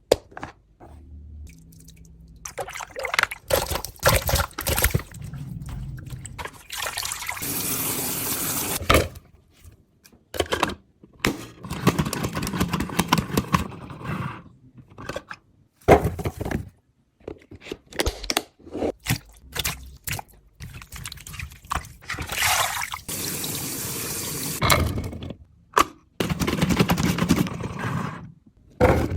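Edited string of short kitchen handling sounds: bursts of water pouring and running, a second or two each, between sharp clicks and knocks.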